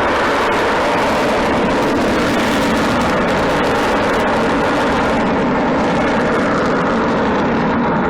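Avro Vulcan XH558's four Rolls-Royce Olympus turbojets, loud and steady jet engine noise from the bomber in flight.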